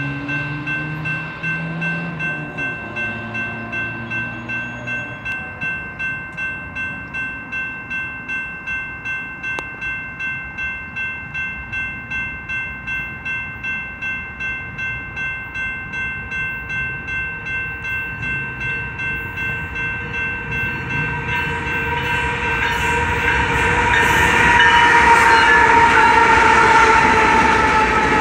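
BNSF coal train approaching and passing: the rumble of its diesel locomotives builds over the last several seconds and is loudest as they go by, then coal hopper cars roll past. A steady bell-like ringing, pulsing about twice a second, sounds through most of it.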